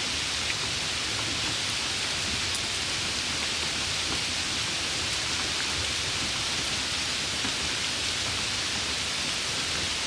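Steady, even hiss of heavy rain falling, with a few faint drop ticks.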